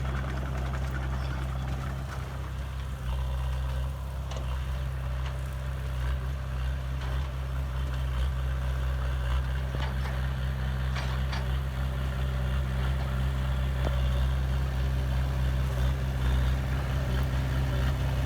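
Heavy diesel engine of earth-moving machinery running steadily at a low, even pitch, with a few faint clicks.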